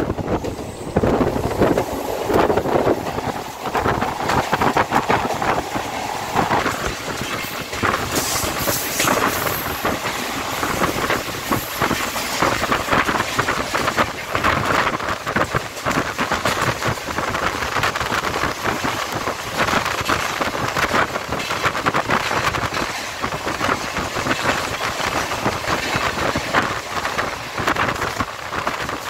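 Mumbai suburban electric local train (EMU) running and gathering speed, heard from on board: steady rushing noise of the moving train with many sharp clacks from the wheels on the track.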